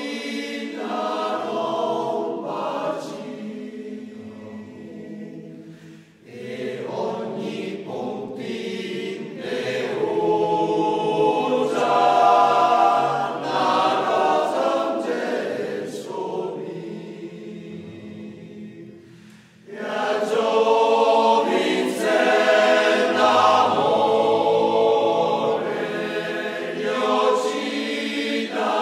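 Male choir singing in phrases. The sound falls away briefly between phrases about six seconds in and again near twenty seconds, then swells back up.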